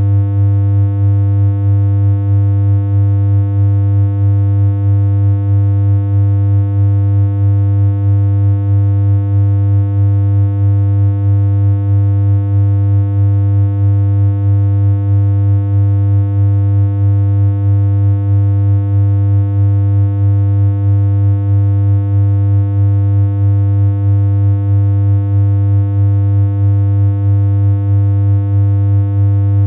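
Synthesized electronic hum, a steady low buzzy tone held without change, with a faint regular pulse in its loudness.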